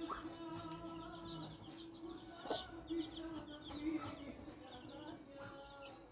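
Silver Laced Wyandotte chicks peeping with short high chirps while a hen keeps up a low, drawn-out clucking call as they feed, with a couple of sharp taps.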